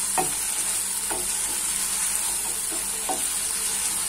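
Tomato and onion masala sizzling in oil in a nonstick pan while a spatula stirs it, with a steady high hiss and about four short scrapes of the spatula through the mix.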